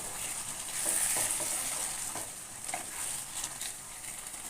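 A spoon or spatula stirring and scraping chicken in coconut milk around a pan, with irregular strokes over a steady sizzle from the hot pan.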